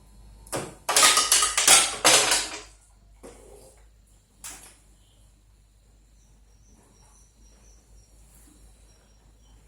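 Small metal tools clicking and clattering against a workbench and circuit board in a fast run lasting about two seconds, then two single clicks. This is the handling during removal of a burst capacitor from an air-cooler fan's power board.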